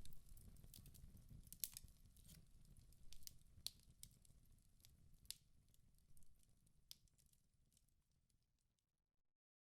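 Wood fire in a fireplace crackling, with irregular sharp pops over a low rumble of flames, fading out to silence near the end.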